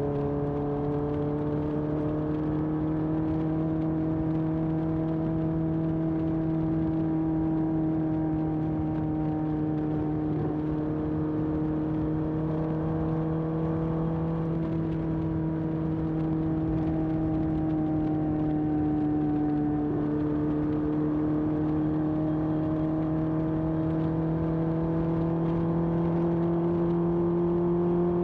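1981 Honda CB750F's air-cooled inline-four engine running through a period Yoshimura exhaust at a steady cruise. The pitch wavers slightly and rises a little near the end.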